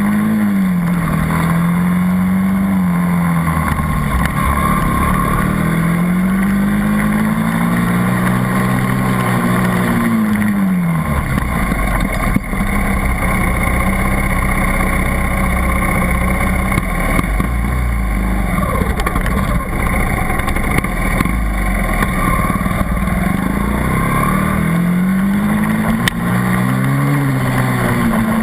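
80cc dirt bike engine running hard around a track, its pitch climbing and dropping again and again as the throttle is opened and closed. Through the middle stretch the pitch holds flatter under a low rumble.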